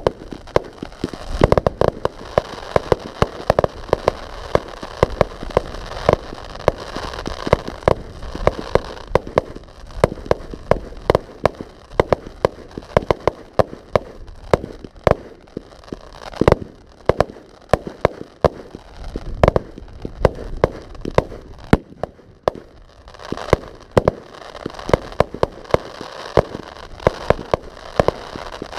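Professional fireworks display going off: a dense, continuous run of sharp bangs, often several a second, thinning briefly about three quarters of the way through before building again.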